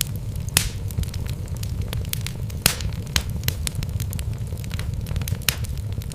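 Wood logs burning in a fireplace: a steady low rumble of the flames with frequent irregular crackles and pops, two of them louder, about half a second in and near the middle.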